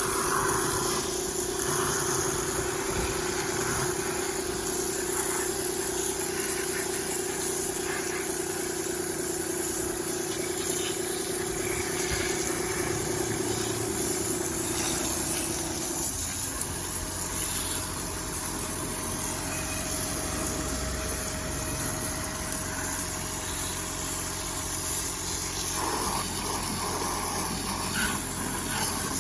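Nissan Note e-POWER's 1.2-litre three-cylinder petrol engine running steadily as the on-board generator, its steady hum shifting to a higher tone about halfway through.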